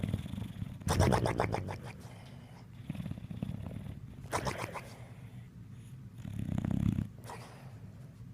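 Dog snoring: rattling snorts on the in-breath alternate with lower, humming out-breaths, a few seconds apart. The loudest is a long rattly snore about a second in.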